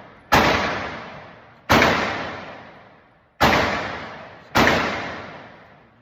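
Four gunshots fired one after another at uneven intervals of roughly a second and a half, each a sharp crack followed by a long echoing decay.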